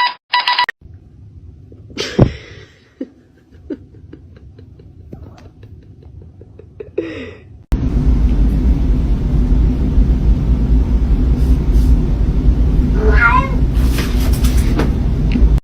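A cat meowing a few times over a low rumble. The rumble jumps abruptly to much louder about halfway through. A short electronic beeping ends right at the start.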